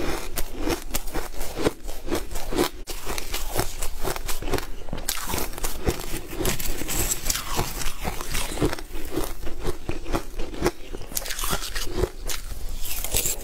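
Close-miked mouth sounds of someone biting and chewing a crunchy frozen dessert: a dense, irregular run of crisp crunches and crackles.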